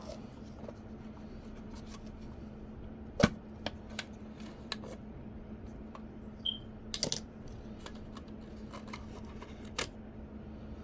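Scattered small clicks and taps of hand tools and small parts being handled during a repair, the loudest about three seconds in and a quick cluster around seven seconds, over a steady low hum.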